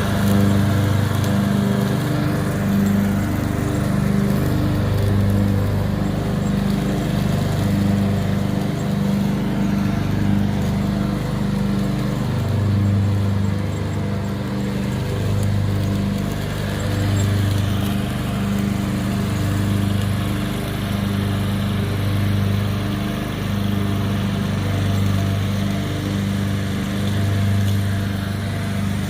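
Riding lawn mower's small engine running steadily under way, its drone swelling and easing every second or two.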